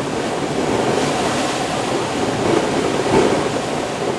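Tropical-storm wind gusting hard and buffeting the microphone, a loud rushing noise that swells and is loudest about three seconds in.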